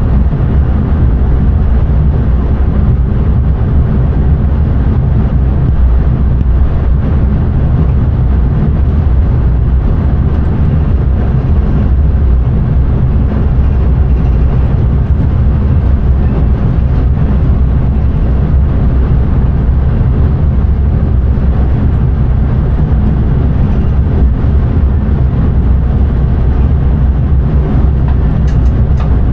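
Dutch intercity train running steadily along the line, heard from inside the driver's cab: a loud, even low rumble of wheels, track and motors with no changes.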